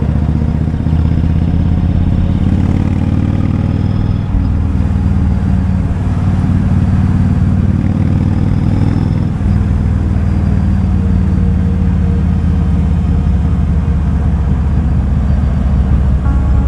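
Kawasaki Vulcan 2000's big V-twin engine running steadily as the motorcycle rides along, with a deep, low-pitched engine note. The note dips briefly about four seconds in and again about nine and a half seconds in.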